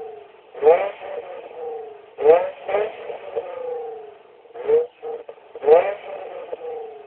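Six-cylinder sports car exhaust revved in about five quick throttle blips, each rising sharply and falling back to idle.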